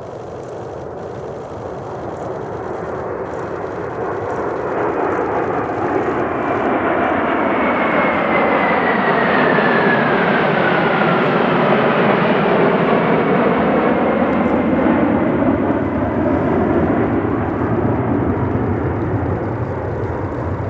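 Mitsubishi F-2A fighter's single turbofan jet engine flying past. The rumble builds for about ten seconds, then slowly fades, and a high whine drops in pitch as the jet goes by.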